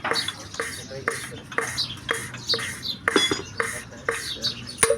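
Truck engine cylinder-head valve being ground into its seat by hand: scraping of the valve turning on the seat, with a short metallic clink about twice a second as the valve taps down onto the seat.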